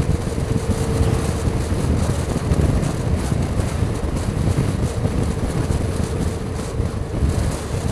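Motorcycle on the move: steady wind rush over the rider's helmet microphone, with the engine and road noise running underneath.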